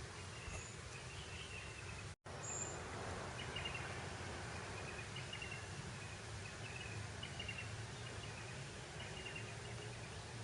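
Steady breeze over grassland, with short high chirps repeating in little runs every second or so. The sound cuts out completely for an instant about two seconds in.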